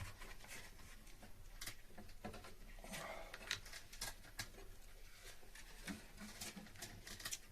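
Faint scattered clicks and rustles of hands handling air-conditioner refrigerant piping and its wrapping, over a low steady hum.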